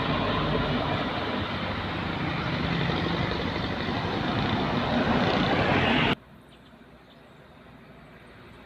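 Large truck's engine running loudly as it passes, swelling toward a peak, then cutting off suddenly about six seconds in, leaving faint background noise.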